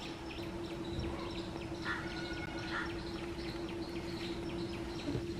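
Small birds chirping and calling repeatedly in short notes, with one longer held call about two seconds in, over a steady low hum.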